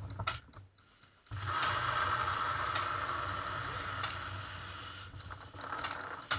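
A few clicks, then a steady mechanical whirring that starts about a second in and lasts about four seconds before fading.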